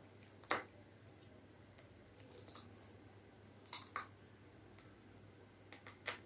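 Close-miked eating of khichdi and chicken curry: quiet chewing broken by short, sharp, wet clicks and smacks. The loudest comes about half a second in, a close pair around four seconds in, and another pair near the end.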